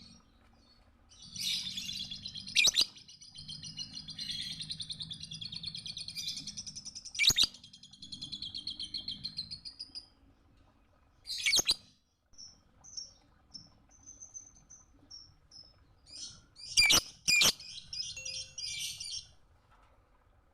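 Lovebird twittering: a long rapid chatter lasting several seconds, cut through by loud sharp chirps, then a few soft short tweets and a second burst of chatter near the end.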